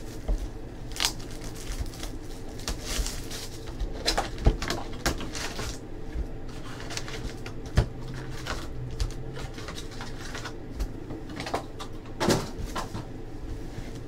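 Trading-card packs being torn open and cards handled: scattered rustles and short clicks, with a few louder snaps, over a steady low hum.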